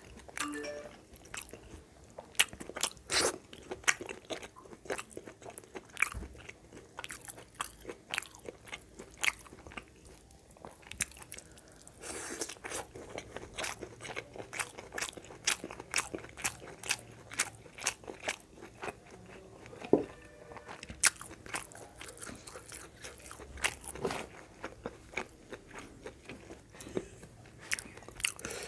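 A person chewing and crunching food close to the microphone, with many rapid, irregular crisp clicks.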